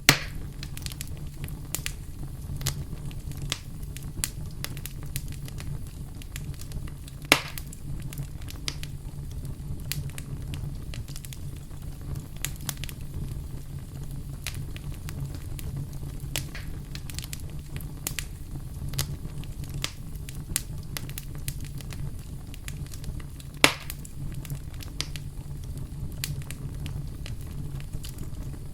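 Campfire burning with a steady low rumble and constant scattered crackles, and a few louder pops, about 7 and 24 seconds in.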